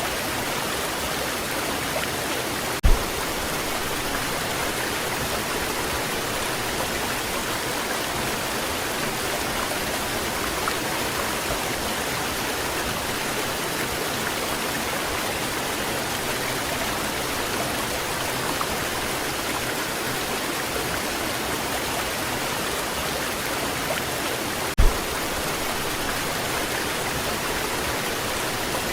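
Waterfall, water pouring in a steady, even rush. Two brief dull thumps break in, about three seconds in and near the end.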